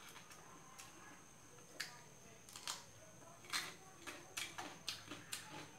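Quiet eating sounds: a person chewing, with a scattering of short, sharp mouth clicks and smacks.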